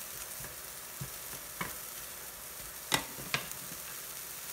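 Diced ham sizzling in a nonstick frying pan while it is stirred with a wooden spatula, with a steady hiss. A sharp tap of the spatula on the pan about a second and a half in, and two more close together about three seconds in.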